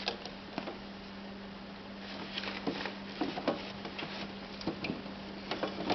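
Plastic Barbie doll and doll-house furniture being handled, with scattered light clicks and taps of plastic on plastic. A low steady hum runs underneath.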